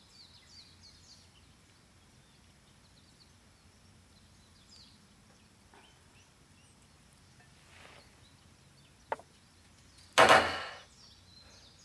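A drink can pulled open: a sharp click of the tab, then about a second later a loud, short hiss of gas escaping that fades quickly. Faint bird chirps come and go in the background.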